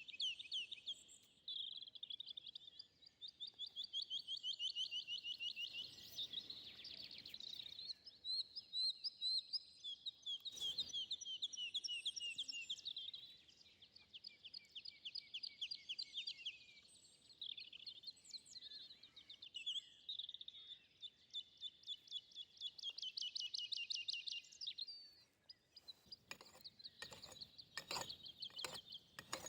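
Songbirds singing, phrase after phrase of rapid high trills. In the last few seconds a quick series of sharp clicks comes in.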